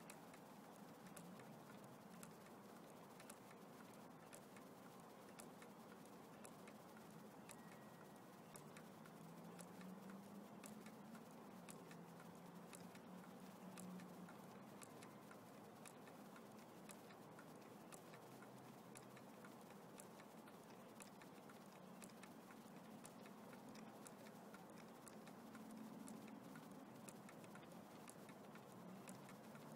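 Small homemade Stirling engine running on solar heat: a steady run of faint ticks over a faint, low, wavering hum.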